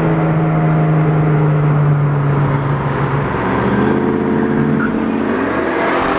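Car engine pulling hard under acceleration in a roll race: a steady, strong engine note for about three seconds, then the pitch drops and climbs again through the last few seconds, as after a gear change.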